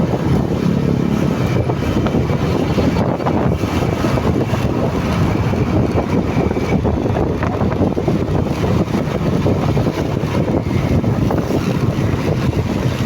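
Motorcycle running at a steady speed while being ridden, with wind rushing over the microphone.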